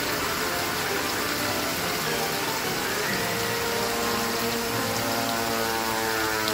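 Steady rain hiss, with the music of an old television show playing underneath in long held notes that come up more strongly about three seconds in.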